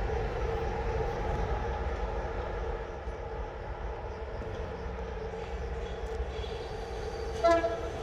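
Train arriving at a station platform with a steady drone and low rumble. Near the end there is one brief, sharp horn toot.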